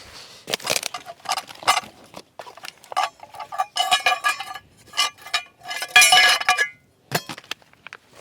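Metal clinking and scraping: a ringing metal object is struck and handled several times, with longer rattling clatters about four and six seconds in, then a couple of duller knocks.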